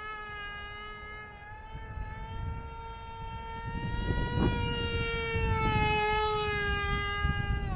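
Whine of a small Sunny Sky brushless motor and propeller on a foam RC flying wing in flight, its pitch rising gently to a peak about halfway through and then sinking back as the plane passes. Gusty wind rumbles on the microphone underneath, stronger in the second half.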